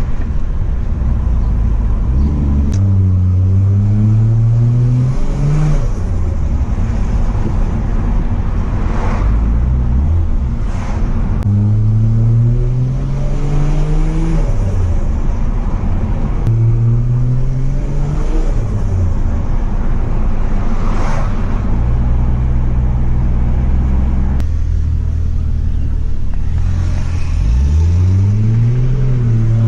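Toyota JZX100 Mark II's turbocharged 1JZ-GTE VVTi straight-six pulling hard through the revs and dropping back, about five times over. There are short bursts of turbo flutter when the throttle is lifted.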